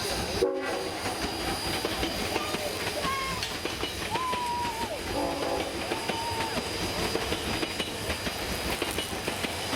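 A steam train's carriages rolling along the track: a steady rumble thick with quick wheel clicks over the rails, with a few short high squeals or calls about halfway through.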